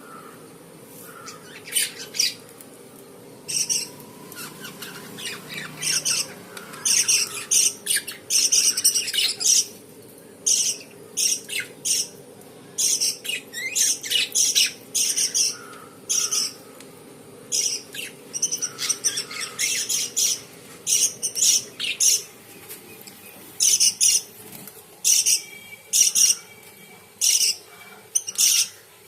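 A flock of pet lovebirds calling: short, high-pitched chirps and squawks in quick irregular clusters, with brief pauses between them.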